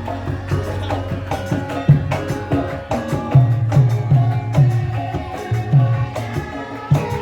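Live Javanese lengger dance music: a gamelan ensemble, with kendang hand drums playing a quick run of low strokes under sustained ringing tones from gongs and metallophones.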